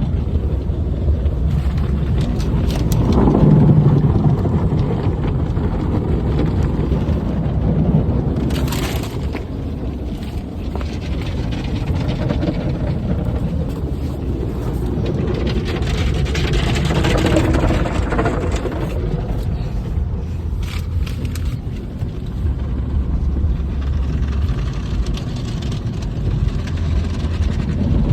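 Car wash running: a steady low rumbling noise, with a few sharp knocks or scrapes now and then.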